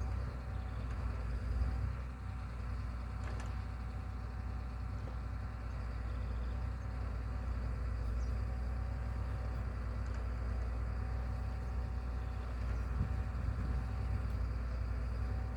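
A machine's engine running steadily, a low even rumble with a faint whine above it.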